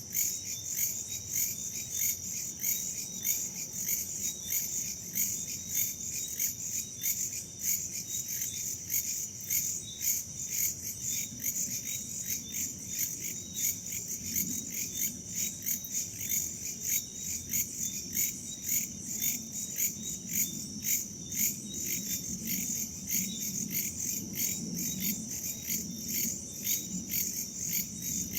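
A chorus of crickets and other insects chirping in fast, regular pulses that keep on without a break.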